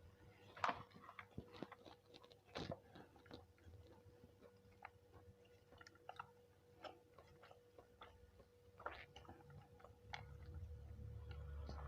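Close-miked eating of nasi kucing: soft chewing with scattered small clicks and crunches, faint over a thin steady hum. A low rumble comes in near the end.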